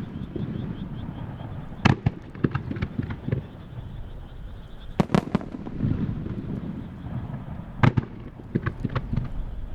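Star mine fireworks barrage: sharp shell bursts at about two, five and eight seconds in, each followed by a spatter of smaller crackling reports, with a low rolling rumble of echoing booms between them.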